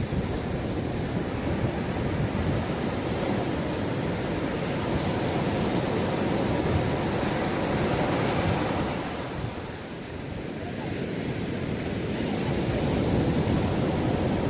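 Sea waves breaking and washing up a beach: a continuous surf rush that swells about halfway through, eases off briefly, then builds again. Wind buffets the microphone underneath.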